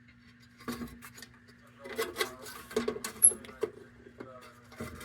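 Light metallic clicks and rattles of an old tin kerosene lantern's stiff hinge being worked back and forth until it frees up, with a sharper knock about three seconds in.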